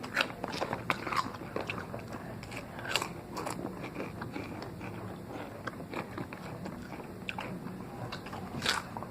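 Potato chips being bitten and chewed close to the mouth: irregular dry crunches, a few louder bites standing out among the steady chewing.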